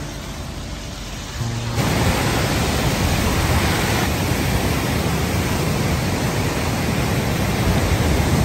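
Steady, loud rushing of fast-flowing floodwater, cutting in suddenly about two seconds in after a quieter stretch.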